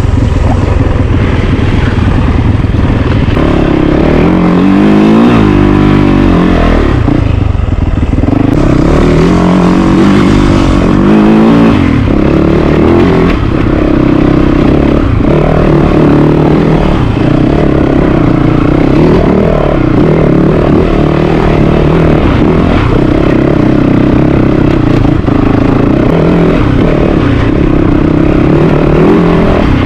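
Yamaha YZ450FX dirt bike's single-cylinder four-stroke engine under way on a trail, revving up and down several times through throttle and gear changes, then running steadier with small rises and falls in pitch.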